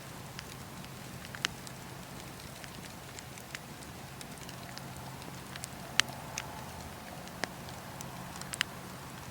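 Campfire burning with a steady low hiss and irregular sharp crackles and pops of the burning wood, the loudest pops about one and a half, six and eight and a half seconds in.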